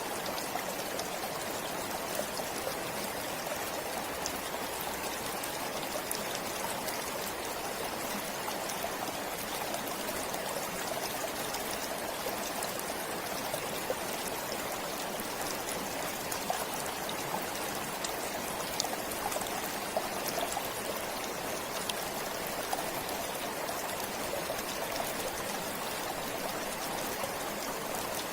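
Stream water flowing steadily, an even rush of running water with small scattered splashes and trickles.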